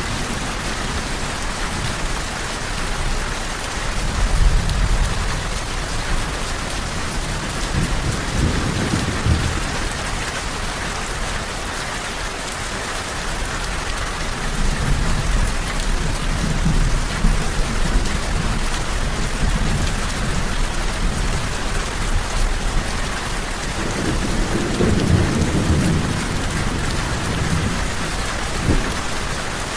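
Steady rain with low rolls of thunder rumbling up several times, the strongest one near the end.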